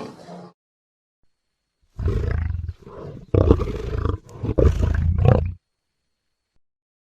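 Big cat roaring: a run of four or five deep, rough roars in close succession, starting about two seconds in and stopping about halfway through the last third.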